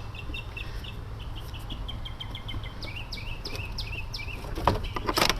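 A songbird chirping in a quick series of short, high notes over a steady low hum, with a few sharp clicks and knocks near the end.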